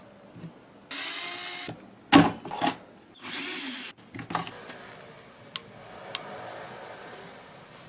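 Short bursts of a handheld power tool whirring, twice for under a second each, with sharp knocks and clicks of parts being handled in between.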